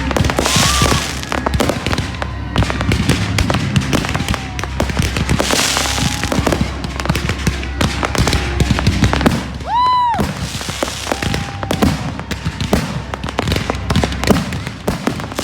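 Fireworks going off in rapid succession: dense crackling and bangs, with short whistling rockets rising and falling in pitch and one strong whistle about ten seconds in.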